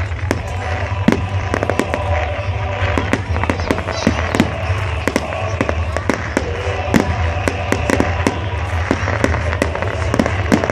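Fireworks display: a rapid, irregular run of sharp bangs and crackles from exploding shells, several a second, over a steady low rumble.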